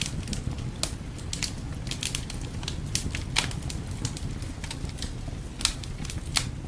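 Wood fire crackling, with irregular sharp pops and snaps, several of them louder, over a steady low rumble.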